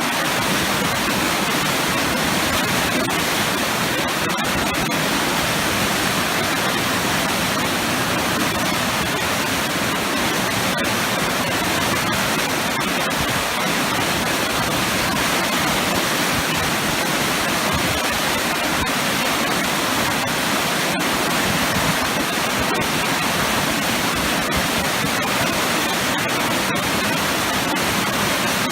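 Waterfall with heavy churning water, a powerful steady rush.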